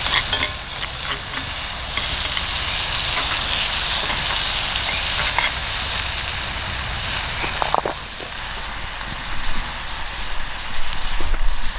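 Food sizzling in a cast iron skillet over a wood fire, a steady hiss with scattered pops and crackles.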